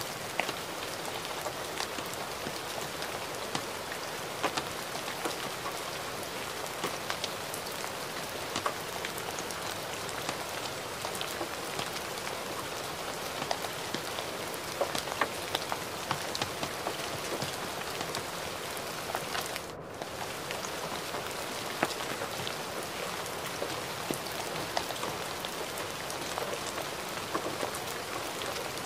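Gentle rain falling steadily: an even hiss dotted with many close drop ticks. The sound drops out for a split second about two-thirds of the way through.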